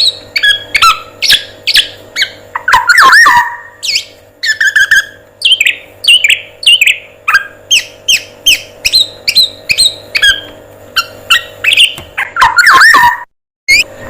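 Recorded songbird song for training a male black-naped oriole: a fast series of short, sharp whistled chirps with sweeping pitch, about two to three a second. A few louder, lower calls come about three seconds in and again near the end, and the sound cuts out briefly just before the end.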